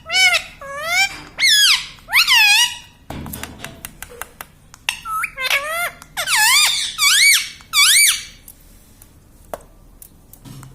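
Ringneck parrot giving a run of short, high-pitched squeaky calls, each dipping then rising in pitch. A pause of a couple of seconds falls between two bursts.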